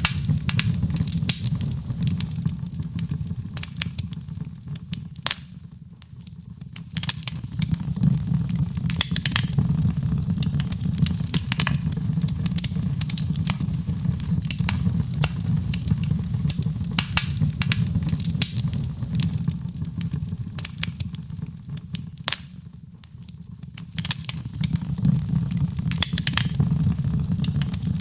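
Wood fire in a fireplace crackling, with irregular sharp pops and snaps over a steady low rumble of the flames. The crackling thins out and the level drops briefly twice, about six seconds in and again near the end.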